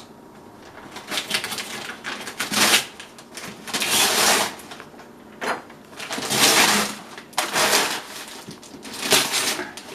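Gift wrapping paper rustling and tearing in repeated bursts as a present is unwrapped.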